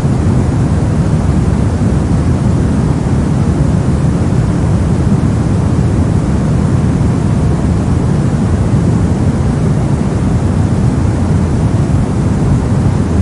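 Brown noise: steady random noise weighted heavily toward the low end, giving a deep, even rumble without any change.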